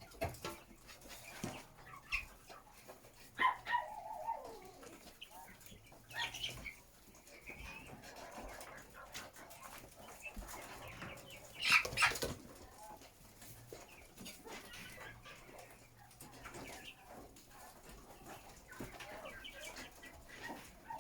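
Chickens clucking and calling, with wings flapping. One call slides down in pitch about three and a half seconds in, and there is a loud sudden burst of flapping or squawking near the middle.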